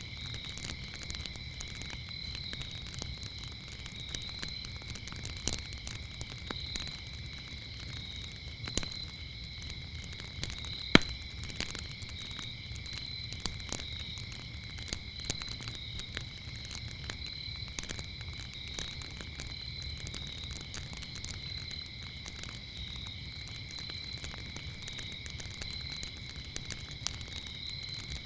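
Wood fire crackling with scattered small pops and one sharp, much louder pop about eleven seconds in, with a low rumble underneath. Over it, crickets chirp in a continuous high trill at two pitches.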